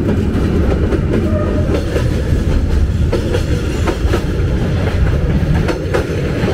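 Passenger train carriages rolling past at arm's length: a loud, steady rumble of wheels on rail with irregular clacks as the wheels cross the rail joints.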